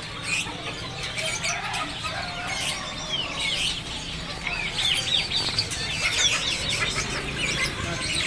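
Many caged birds at a bird market calling at once: a busy chorus of short, high chirps and peeps that grows denser about halfway through, over a low steady hum.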